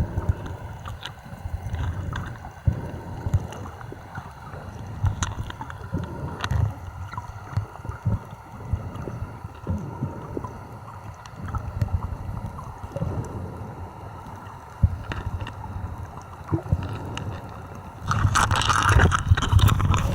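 Water sloshing and gurgling, with many short clicks and knocks; it grows louder near the end.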